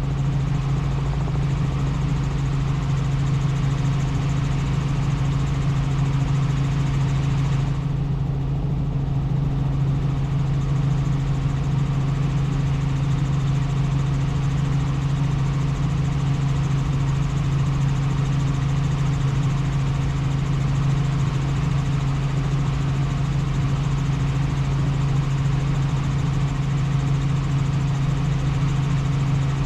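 Helicopter in steady flight: a constant low engine-and-rotor drone with a strong steady hum over a rushing noise. The higher hiss dips briefly about eight seconds in.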